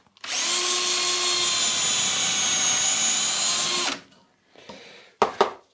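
A drill mounted in a drill stand runs steadily for about three and a half seconds, drilling a hole into a round rod, then stops. It gives a steady motor whine with several fixed tones. A brief, sharp sound follows near the end.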